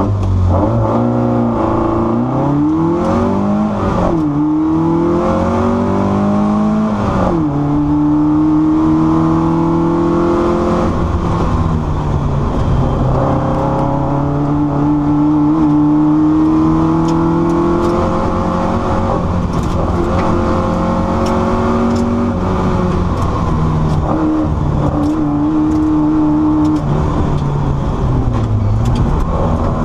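Competition car's engine heard from inside the cabin on a hillclimb run. The revs climb through the gears, dropping sharply at each change about 4 and 7 seconds in. It then runs hard at high revs, easing off and picking up again for the corners.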